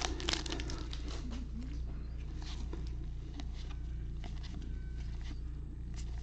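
Trading cards being handled and flipped through, giving scattered faint ticks and light rustles over a steady low electrical hum.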